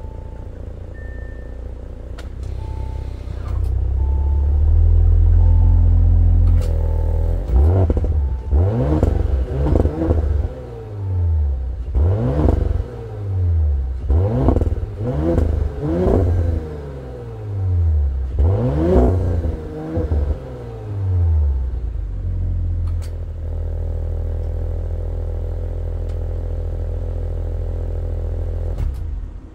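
2019 Audi S5's turbocharged V6 idling through its quad exhaust, then blipped up and dropped back in a run of quick revs before settling back to a steady idle. The engine cuts off near the end. A repeating chime beeps under the idle for the first few seconds.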